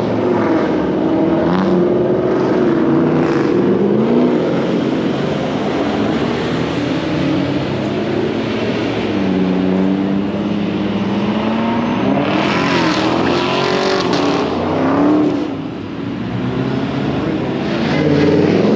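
Car engines running and revving, their pitch rising and falling again and again, with a louder rush of engine noise around the middle of the stretch.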